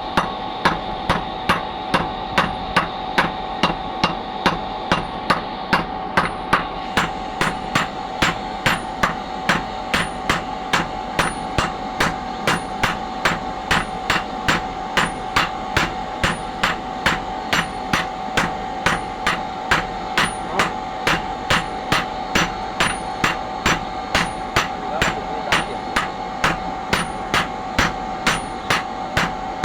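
Blacksmith's hammer striking metal in a steady, even rhythm of about two blows a second, with a steady tone underneath.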